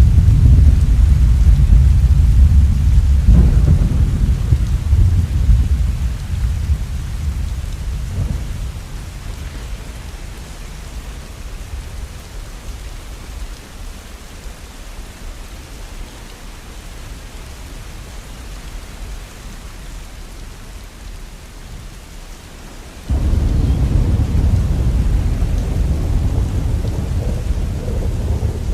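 Steady rain under low rolling thunder: a loud rumble at the start fades away over about ten seconds, leaving just the rain. About 23 seconds in, another low rumble starts suddenly.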